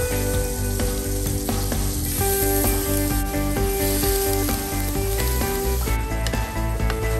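Butter and small chunks of beef sizzling in a nonstick frying pan as they are stir-fried with a wooden spatula, over background music of held notes.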